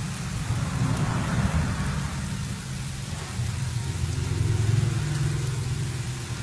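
Shredded sweet potato frying in hot oil in a pan: a steady sizzle, with a low rumble underneath.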